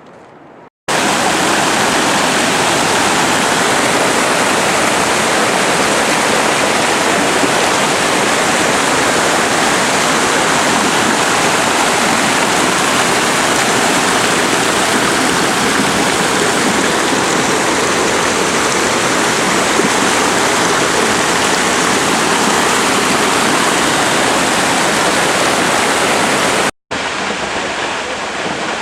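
Loud, steady rush of falling water from a waterfall close by: an even noise with no pitch. It starts abruptly about a second in, cuts out for an instant near the end, then goes on a little quieter.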